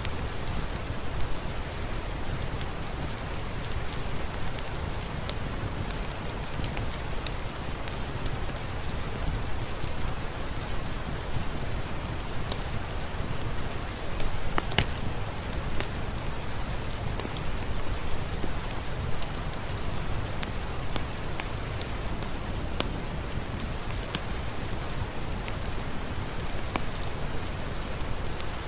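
Steady rain falling, a dense even hiss with a heavy low end, with scattered sharp clicks and pops throughout.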